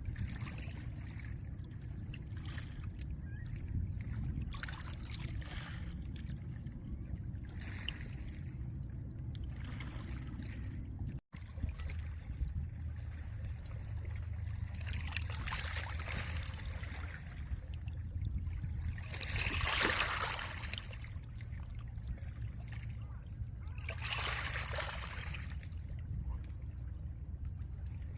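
Small lake waves breaking and washing over a pebble shore every few seconds, the loudest wash about twenty seconds in, over a steady low rumble of wind. The sound cuts out for an instant a little after ten seconds.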